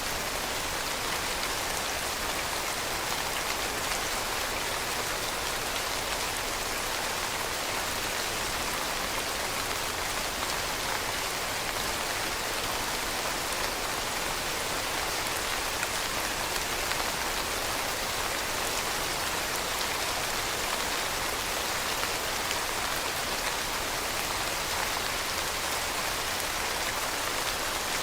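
Steady rainfall pattering on a surface, an even hiss of many drops with no thunder or breaks.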